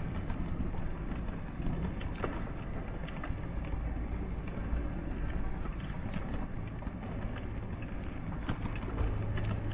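Steady low rumble of a running vehicle, with irregular light clicks and taps over it.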